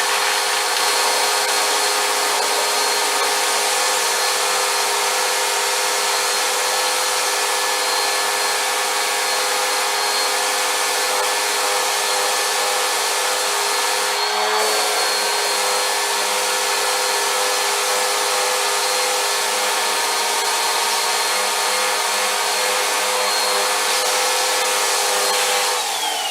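Vacuum cleaner running steadily with a high motor whine, wavering briefly about halfway through; near the end it is switched off and the motor whines down.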